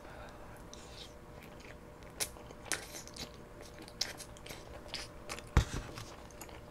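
Close-miked chewing of chewy tteokbokki rice cakes: scattered wet mouth clicks and smacks. A dull thump about five and a half seconds in, the loudest sound, as the paper cup is set down on the table.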